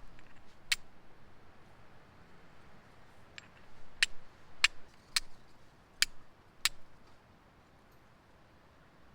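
A series of short, sharp clicks or snaps, about seven, irregularly spaced and bunched together around the middle, over a quiet background hiss.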